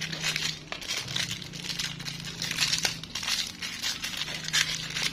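Rustling and scraping of hand work on a motorcycle rear wheel hub, cleaning and opening the wheel bearing area, in short irregular strokes over a steady low hum.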